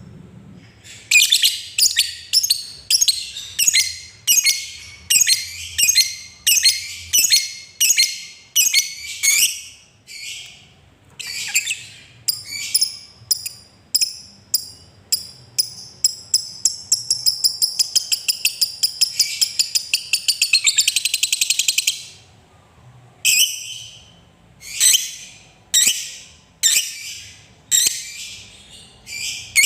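Lovebird singing: a run of sharp, high-pitched chirps about two a second that quickens into a long, rapid chattering trill (the 'ngekek') lasting several seconds, then breaks off briefly and returns to separate chirps.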